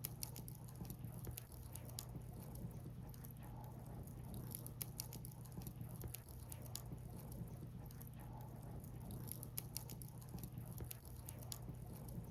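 Firewood burning in an open fire, crackling with many small sharp pops at an irregular pace, over a steady low hum.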